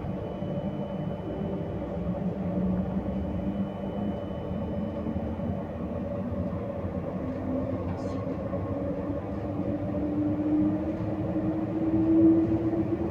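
RER B commuter train running, heard from inside the carriage: a steady low rumble, with a whine that rises slowly in pitch over the second half as the train picks up speed. A single click about eight seconds in.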